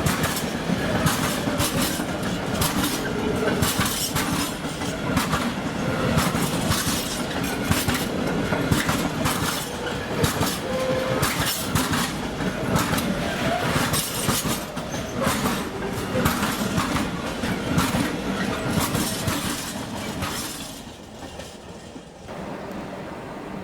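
Train passing close by, its wheels clicking rapidly over the rail joints with a heavy rumble. The sound dies away about 21 seconds in, and a quieter steady hum follows near the end.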